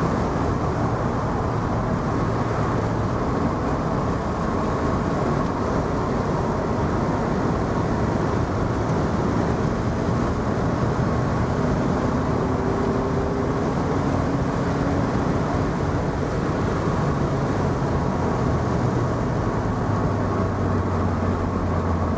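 2002 Vauxhall VX220's 2.2-litre four-cylinder engine pulling on the road, heard from the open cockpit with the soft top off, under steady wind and tyre noise. The engine note shifts in pitch as the car picks up speed.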